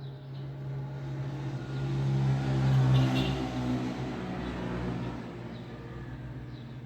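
A motor vehicle passing by on a road: its engine and tyre noise build to a peak about three seconds in, then fade away.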